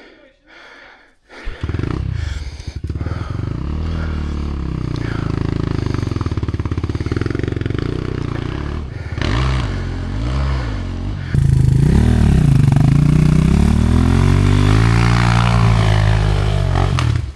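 Off-road motorcycle engine revving up and down under load, the pitch rising and falling repeatedly. It gets louder about eleven seconds in and cuts off suddenly near the end.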